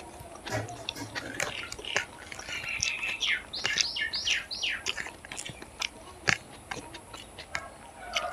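Close-up chewing and wet mouth clicks and smacks of a person eating fried rice. In the middle comes a quick run of about five short high-pitched chirps.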